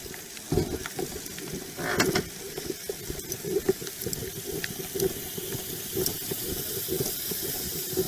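Rustling, rubbing and scattered clicks and knocks of things being handled and moved about at close range, with a steady hiss underneath; the loudest knocks come about half a second in and at about two seconds.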